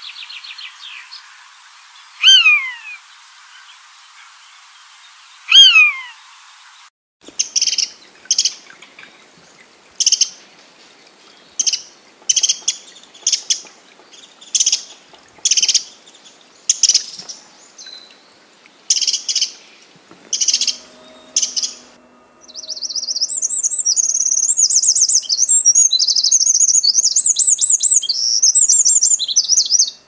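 Bird calls from several different birds in turn. First come two whistled calls that slide downward, then a string of short, sharp calls about once a second, and for the last third a fast, continuous high twittering song.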